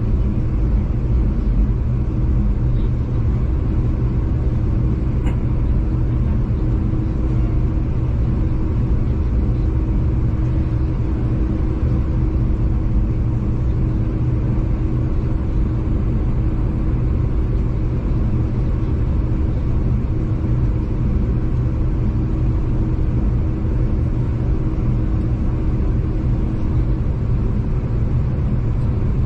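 Steady rumble of a V/Line diesel passenger train running along the line, heard from inside the carriage, with a constant engine hum; one hum note drops away near the end.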